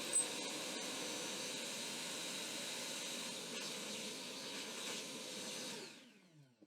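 Workshop electric motor running steadily with a short sharp click about a quarter of a second in. Near the end it is switched off and spins down, falling in pitch.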